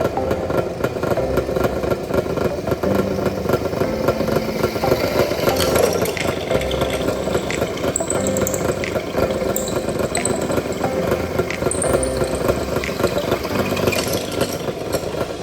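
A machine running steadily with a continuous motor-like sound and a held hum, with scattered light clicks over it.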